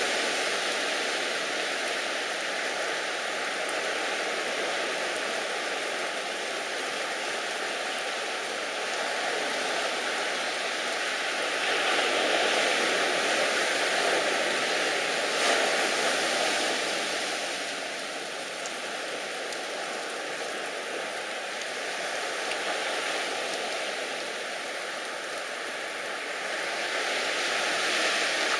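Rushing water: a steady, even hiss that swells for a few seconds in the middle, eases, and builds again near the end.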